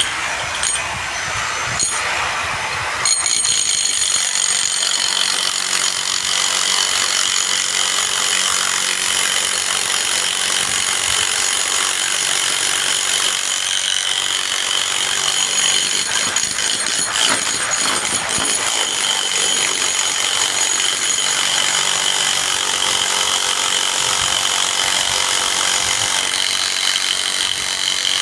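Steady din of construction power tools and machinery, with a high whine over a grinding noise, getting louder about three seconds in.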